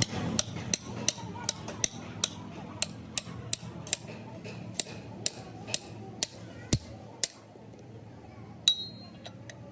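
Light hammer strikes on metal, about two to three a second and sharp and regular, stopping about seven seconds in. A few scattered clicks follow, and one metallic clink rings briefly near the end.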